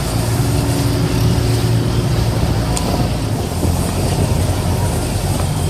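River ferry's engine running with a steady low drone.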